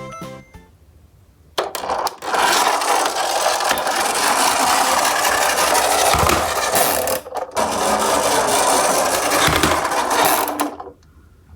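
Toy garbage trucks rolling fast down a steep ramp, their small wheels giving a loud rattling, scraping rumble. It starts about a second and a half in, breaks off briefly past the halfway point, then runs on again for about three seconds and stops.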